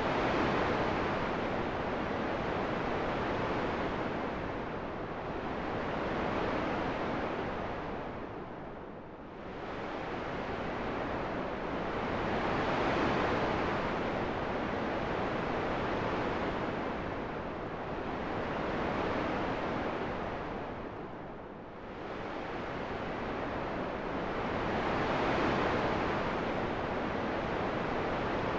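Wind rushing as a steady hiss that slowly swells and eases, dropping away twice, about 9 and 21 seconds in, before rising again.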